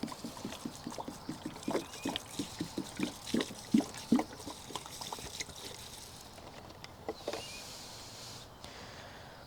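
Garden watering: water splashing and pattering onto plants and soil in quick, irregular spurts, easing after about six seconds into a fainter steady spray hiss that fades out near the end.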